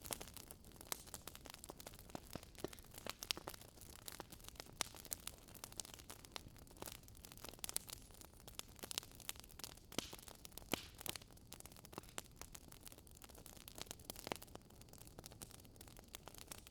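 Wood fire crackling in a fireplace: a soft steady hiss with frequent sharp, irregular pops and snaps from the burning logs.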